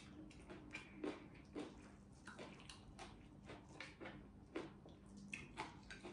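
A person chewing food with her mouth closed: faint, irregular wet smacking and clicking, with a few louder smacks.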